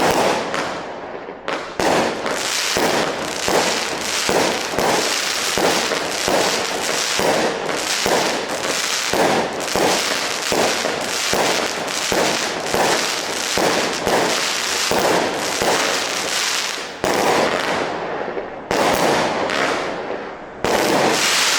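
A 106-shot single-ignition firework cake firing shot after shot, about two a second, each a sharp launch and burst over a steady haze of crackle and hiss. A short lull comes near the end, then a last run of shots.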